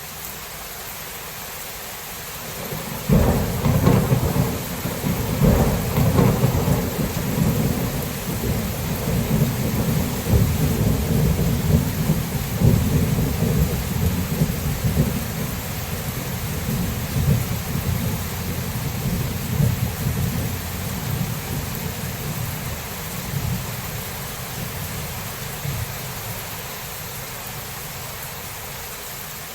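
Steady rain with a clap of thunder about three seconds in, which turns into a long, low rumble that slowly dies away over some twenty seconds.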